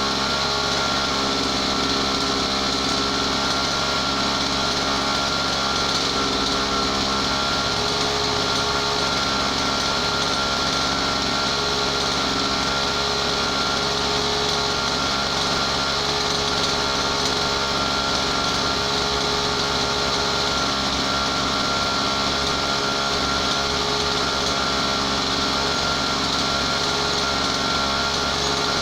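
Brushcutter's small two-stroke engine running at a steady high speed, its pitch and level holding constant.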